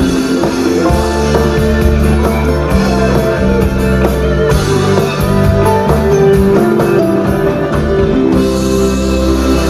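Rock band playing live: electric guitars with bass and drum kit, in an instrumental passage at the end of a song.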